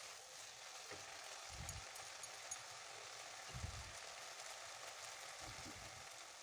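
Onion, tomato and cashew masala sizzling softly in oil in a kadai, a steady quiet frying hiss with a couple of soft low thumps.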